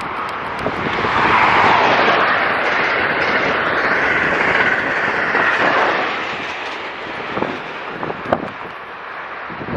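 Amtrak Acela Express high-speed electric trainset passing at speed: a rush of wheel-on-rail and air noise that swells about a second in and dies away after about six seconds.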